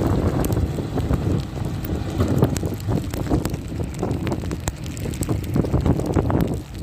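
Storm wind buffeting the microphone with a heavy, gusting rumble, and irregular crackling ticks scattered through it.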